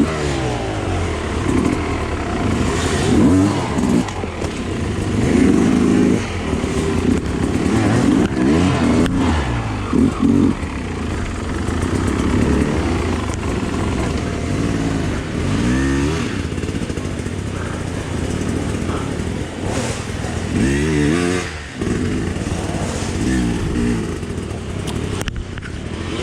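Off-road enduro motorcycle engine heard close from onboard, its pitch rising and falling again and again as the throttle is worked over the terrain, with some clatter.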